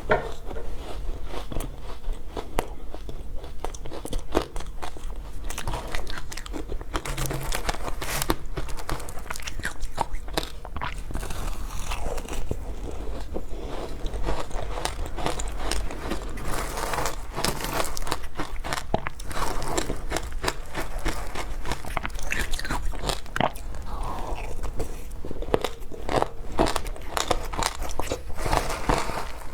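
Close-miked crunching and chewing of frozen matcha ice: a dense, irregular run of crisp crunches from bites throughout.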